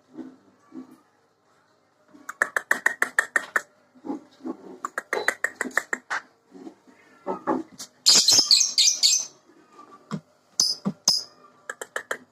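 Lovebird's chattering 'ngekek' call: several bursts of rapid repeated chirps, about ten a second, with a shrill, denser flurry about eight seconds in.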